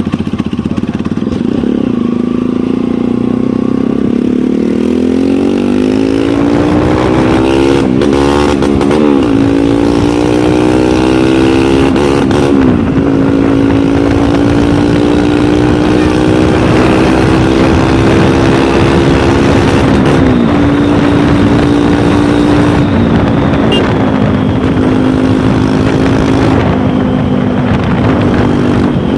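Motorcycle engine running under way, its note sinking a little, then climbing steadily from about five seconds in and holding, with a few brief wavers.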